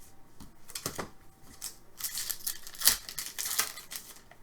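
Hockey trading cards being handled: cards slid and flicked against each other with papery rustles and small clicks, busiest in the second half, with one sharper snap about three seconds in.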